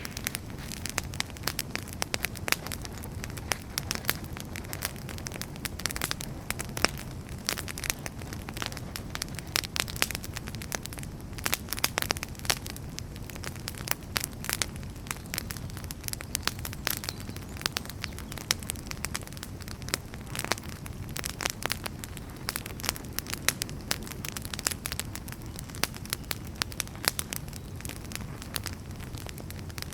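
Wood fire burning in a fireplace, with dense, irregular crackling and popping of the burning logs over a steady low rumble of the flames.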